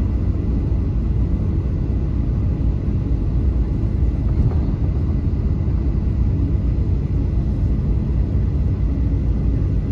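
Steady low rumble of a Boeing 737-800's engines and cabin noise, heard from a passenger seat inside the cabin.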